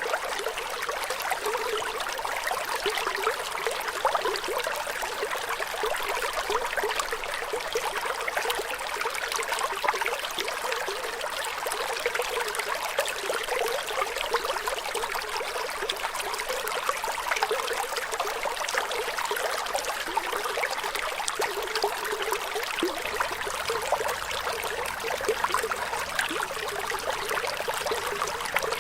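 Flowing water running steadily without pause, a dense trickling rush with little low rumble.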